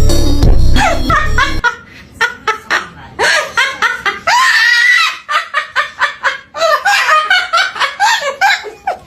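Background music that stops about a second and a half in, followed by laughter in quick short bursts, with one longer high-pitched squeal in the middle.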